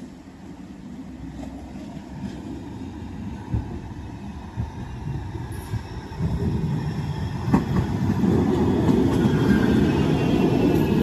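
Manchester Metrolink tram (Bombardier M5000) approaching on the track. Its rumble builds and grows loud about six seconds in, with a few sharp knocks from the wheels on the rails.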